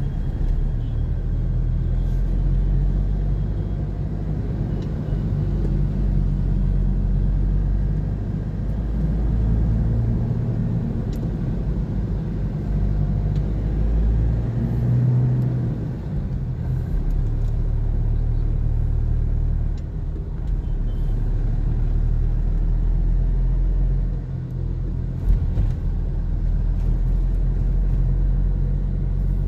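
Low, steady engine rumble of a car crawling through congested traffic, heard from inside the vehicle, its pitch rising and falling slightly as it creeps forward. A short knock sounds late on.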